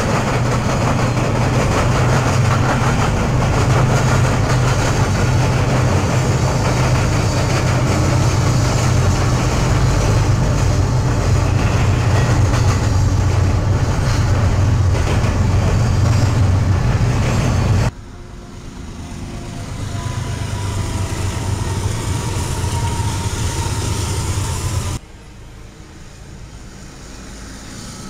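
Train passing a trackside camera, loud, with a steady low drone for about eighteen seconds. The sound then drops off suddenly to quieter train noise that swells again, and drops off suddenly once more near the end.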